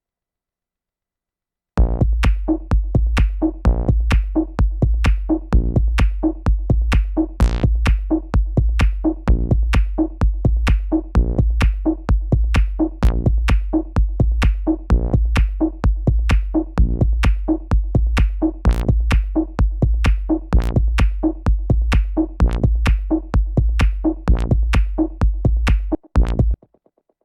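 Electronic techno loop played back from Ableton Live's built-in instruments: a fast, even drum-machine pattern of sharp clicking hits over a steady deep bass and a repeating synth note. It starts about two seconds in and stops near the end, with a short break just before.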